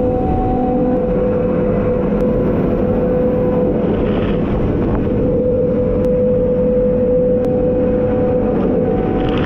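FRAISA E-Cut Alu end mill cutting on a CNC milling machine: a steady, loud machining sound with a held whine from the spindle and cut, fading briefly about four seconds in before returning.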